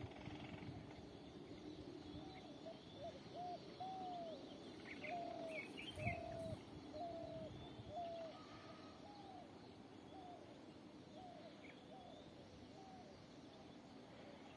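Faint bird calls: one bird repeats short arched notes, quickly at first and then about once a second, with a few higher chirps from other birds midway. A brief low thump about six seconds in.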